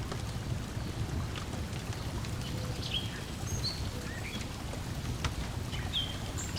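Layered lakeside ambience: water lapping steadily under a wood fire crackling with scattered sharp pops. A few short bird chirps come about three seconds in and again near the end.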